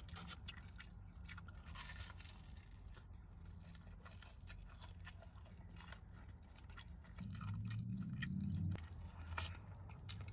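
A person biting and chewing crispy fried food close to the microphone, with repeated sharp crunches. A low hum joins for about a second and a half near the end.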